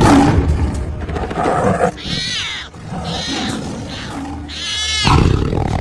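Young tiger cub roaring: three high-pitched calls, each arching and falling in pitch, over a background of forest animal calls.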